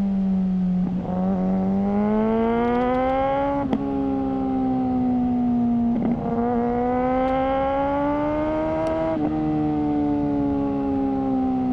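Suzuki GSR600's inline-four engine breathing through a GPR Ghost aftermarket exhaust, under way. The revs climb steadily, then drop sharply at an upshift about four seconds in and again about nine seconds in.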